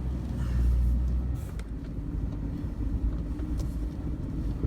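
Low, steady rumble of a farm vehicle being driven slowly along a field track, heard from on board, with a few faint clicks and rattles.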